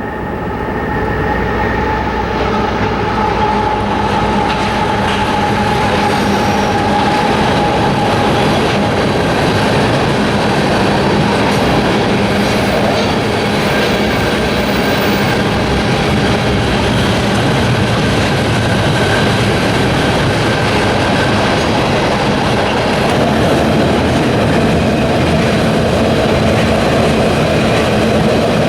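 Freight train cars rolling past at steady speed, a continuous rumble of wheels on rail with faint held wheel squeal.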